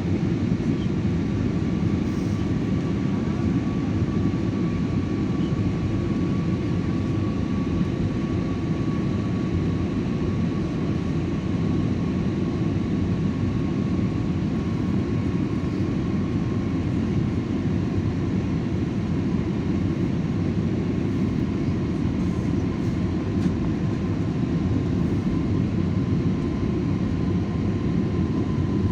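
Steady low rumble of a passenger airliner's cabin, engine and air noise without a break, with a faint thin whine that holds nearly one pitch.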